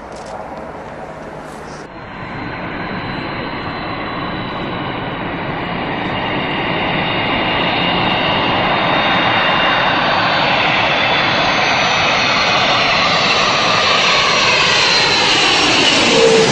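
A fixed-wing aircraft's engines grow steadily louder as it approaches. Near the end, its whining tones drop in pitch as it passes close by.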